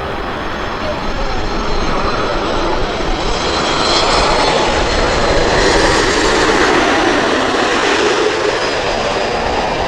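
Jet airliner passing low overhead on final approach, its engine noise with a high whine building to a peak about six seconds in, then easing slightly.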